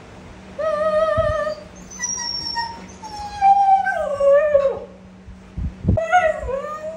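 Dogs whining and howl-whining in a run of long, wavering, pitched cries, one sliding down in pitch in the middle, as they beg for chicken being cooked.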